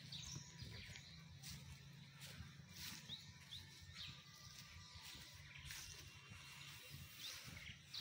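Quiet outdoor ambience with a bird giving a few short, high, rising chirps, about three in all, and faint scattered ticks.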